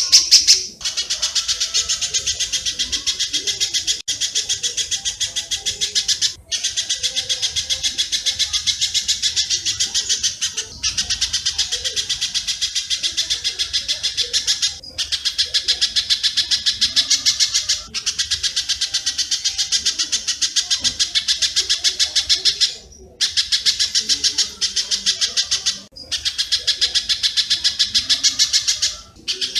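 Recorded birdsong track of spiderhunter (pijantung) and swiftlet (walet) calls: a rough, dense run of rapid high chirps, many a second, in long bursts broken by brief pauses every few seconds.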